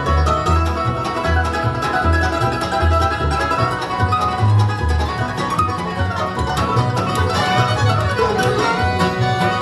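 Bluegrass band playing an instrumental passage with no singing: plucked and bowed acoustic strings over upright bass notes that change about twice a second.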